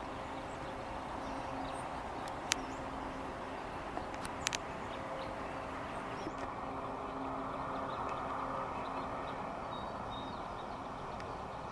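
Outdoor street ambience: a steady low engine or traffic hum, with faint bird chirps and a few sharp clicks.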